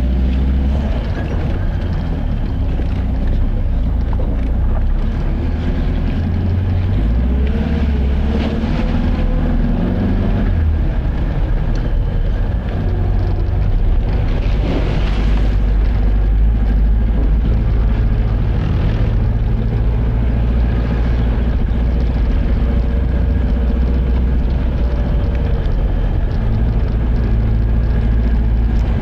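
Car driving: steady engine and road rumble, with the engine note shifting a few times in the first third.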